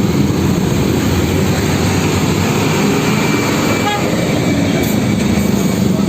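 Steady loud rumble of heavy vehicle noise, with a low engine hum under it.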